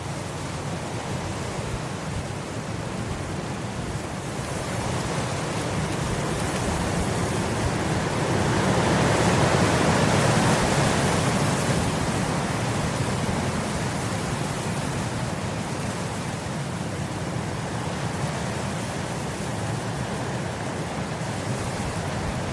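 Wind blowing across grass, a steady rushing that builds to a stronger gust about halfway through and then eases back.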